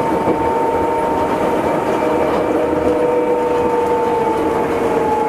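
Astram Line 7000 series rubber-tyred train running, heard from inside the car: a steady rumble with a two-note motor whine that sinks slightly in pitch.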